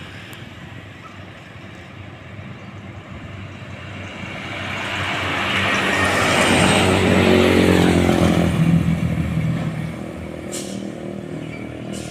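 Heavy diesel truck approaching and passing by. Its engine note grows louder to a peak about seven to eight seconds in, then falls away as it recedes.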